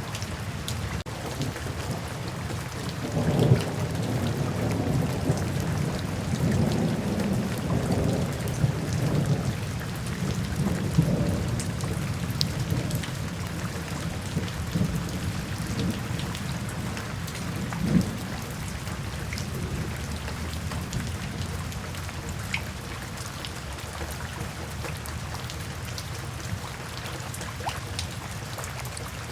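Steady rain falling, with a long roll of thunder that swells about three seconds in and dies away by about twelve seconds, and a shorter rumble near eighteen seconds.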